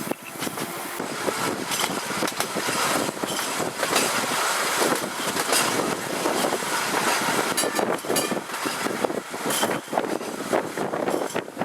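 Tram 8 running along the tramway, a steady rumble of wheels on rail broken by frequent irregular clicks and knocks.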